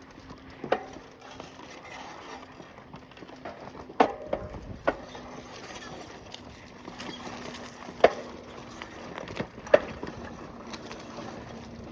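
A bicycle on a rough dirt trail: scattered sharp knocks and clicks, about one every second or two, over a faint steady rolling noise.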